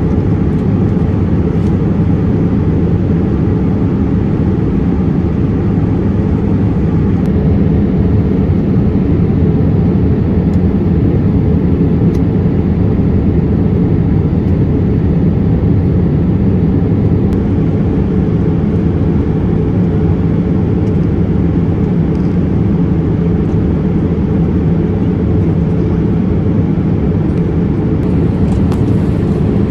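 Steady cabin noise of a Boeing 787-8 airliner in flight: a constant low rumble and rush of engines and airflow that holds level throughout.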